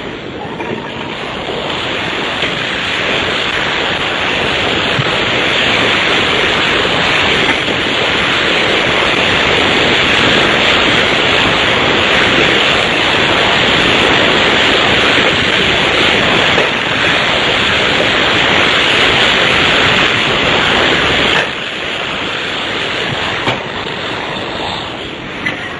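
Loud, steady rushing noise of production-line machinery with no distinct rhythm. It builds over the first couple of seconds and drops abruptly to a lower level about 21 seconds in.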